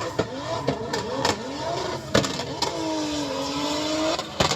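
A car engine revving, its pitch rising and falling, with a longer held rev in the second half and several sharp bangs along the way.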